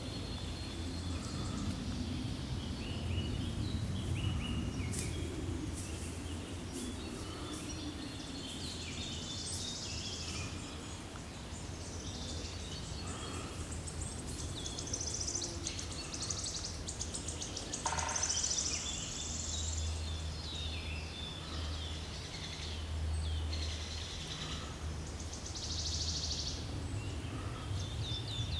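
Forest ambience: several birds calling and singing with short chirps and trills, one call falling in pitch about eighteen seconds in, over a steady low rumble.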